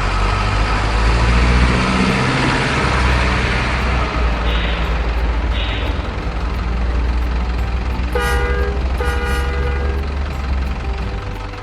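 Truck engine running with a steady low rumble and hiss, and two short horn toots about a second apart, around eight seconds in.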